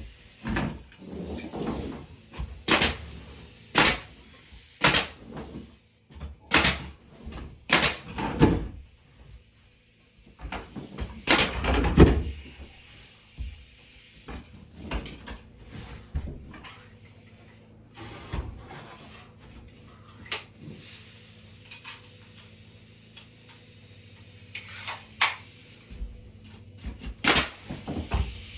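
Irregular wooden knocks and bangs of hand carpentry work, one every second or two at first, the loudest about twelve seconds in, then sparser for a while before picking up again near the end.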